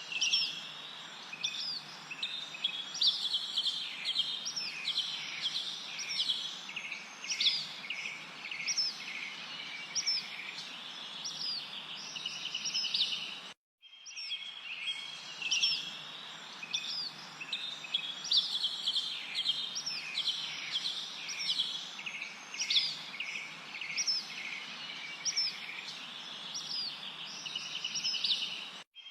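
Several birds chirping: quick, high, upswept calls and short trills over a soft steady background hiss. The same stretch of birdsong plays twice, with a brief dropout to silence about halfway through, as a looped recording.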